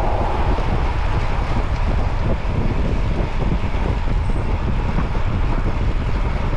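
Steady wind rushing over the microphone, with a low rumble of movement underneath.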